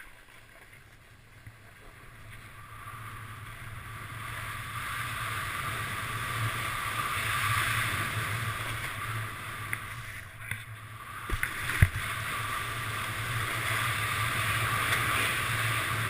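Snowboard riding down a slope: the base and edges scrape and hiss over the snow, with wind rumbling on a helmet-mounted camera, getting louder as the board picks up speed. Near the middle the rushing briefly drops, then a sharp knock is heard.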